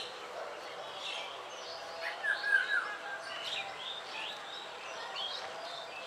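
Birds chirping and calling, a string of short rising and falling chirps, loudest in a brief cluster of calls about two seconds in.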